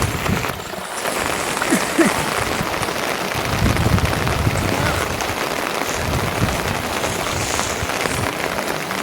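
Steady rain falling, a dense even patter, with a few low thuds about four seconds in.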